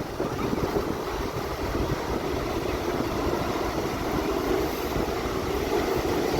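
Aircraft engine noise from a display aircraft at an airshow: a steady rumble that holds evenly throughout.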